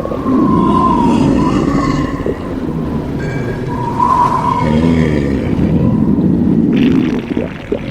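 Exaggerated stomach-growling sound effects: loud, drawn-out rumbling roars that run on without a break, dipping briefly near the end.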